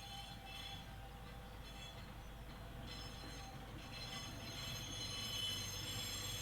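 Sugar cane train running: a low rumble with thin, steady high tones above it, getting a little louder about four seconds in.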